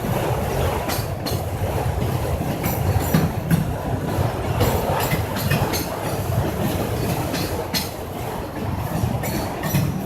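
Freight train of auto-rack cars rolling past: a steady rumble of wheels on rail with frequent sharp clicks as the wheels cross rail joints, and a few brief faint wheel squeals.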